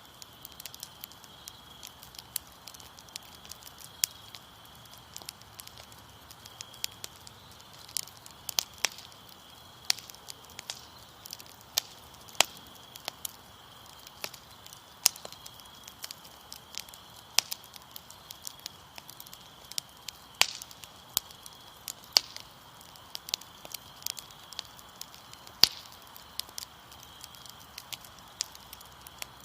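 Wood fire crackling, with irregular sharp pops and snaps, some louder than others. Under it runs the steady high trill of crickets.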